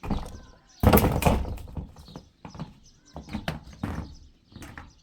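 A series of irregular knocks and thumps, loudest in a noisy burst about a second in.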